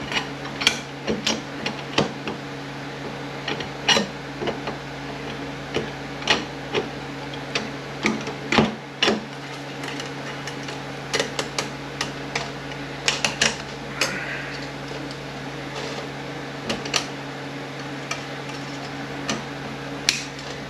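Metal parts of an automatic transmission clinking and clicking irregularly as they are handled and set down during teardown, over a steady low hum.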